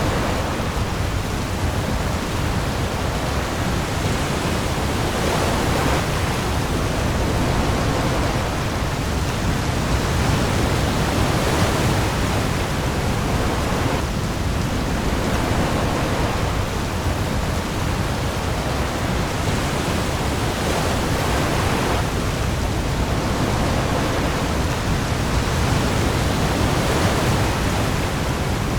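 Heavy rain falling on the sea with waves: a dense, steady hiss that swells and eases every few seconds, over a deep low rumble.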